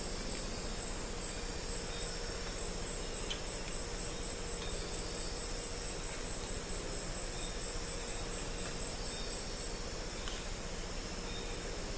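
Rainforest insects: a steady high-pitched chorus, with one insect's chirp pulsing about four times a second until about three-quarters of the way through, over a constant hiss.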